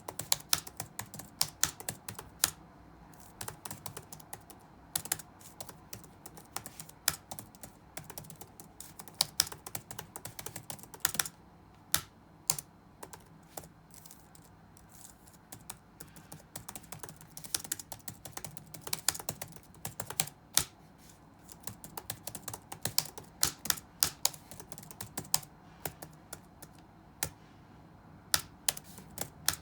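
Typing on a computer keyboard: irregular runs of quick keystroke clicks broken by short pauses, with an occasional much louder keystroke standing out.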